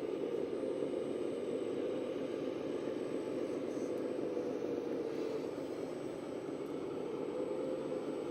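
Radio-controlled model tractor running: a steady drone with a faint wavering hum.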